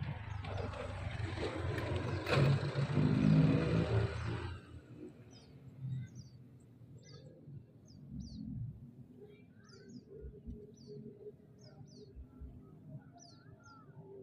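A loud rush of noise with a single sharp click in the middle, stopping after about four seconds. Then a small bird calls repeatedly with short, high, falling chirps, roughly one a second.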